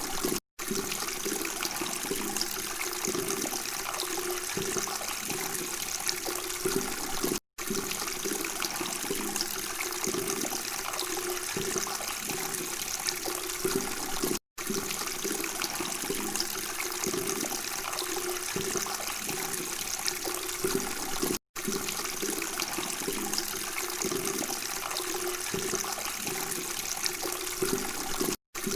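Steady babbling, trickling water, cut by a brief silent dropout about every seven seconds.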